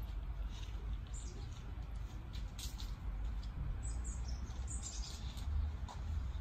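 Small birds chirping now and then over a steady low rumble of wind on the microphone.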